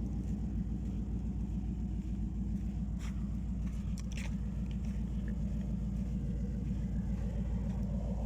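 Dune buggy's Chevrolet LS1 5.7-litre V8 running steadily with a deep, even rumble and no revving.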